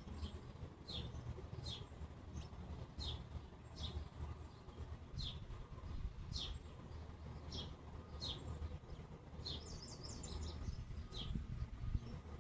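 A bird calling over and over: short, high chirps that slide down in pitch, about one a second, with a quick run of several notes near the end. A low, steady rumble lies underneath.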